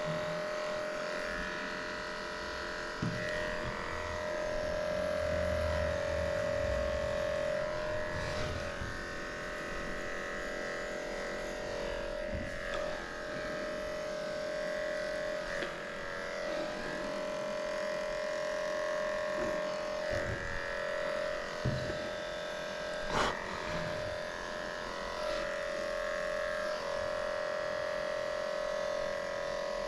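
Electric dog grooming clippers running with a steady buzzing hum as they work through a small dog's coat, with a few light knocks along the way.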